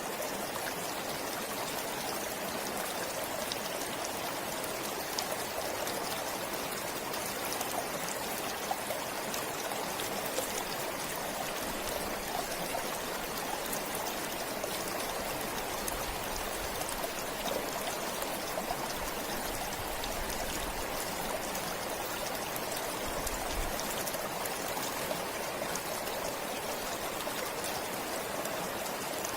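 Forest stream flowing steadily, with small trickles and splashes.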